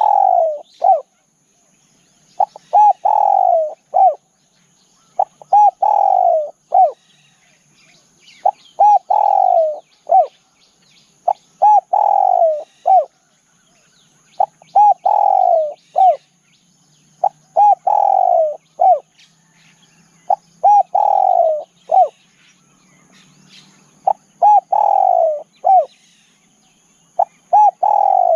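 Spotted dove cooing: a repeated phrase of two short coos, a longer falling coo and a short final note, given about every three seconds, roughly ten times. A faint steady high-pitched drone and a few faint chirps of other birds sit behind it.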